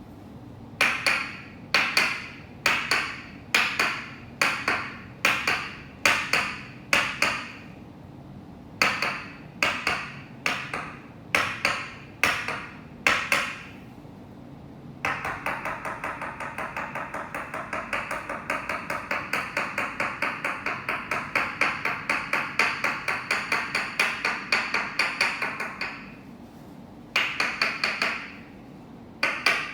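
Toksen massage: a wooden mallet striking a wooden peg held against the body, making sharp ringing knocks about two a second in two runs. About halfway through it switches to a fast, even tapping of several lighter strikes a second for about ten seconds, then slows back to single knocks near the end.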